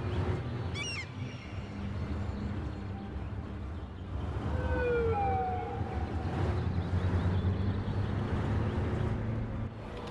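Low, steady engine rumble of a motor vehicle close by, stopping abruptly near the end. A few short falling tones come about halfway through.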